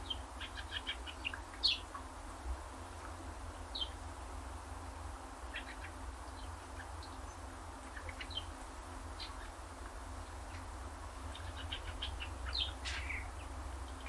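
Small songbirds chirping: several clusters of quick, high chirps every few seconds, with a few single sharper, slurred call notes in between, over a steady low rumble.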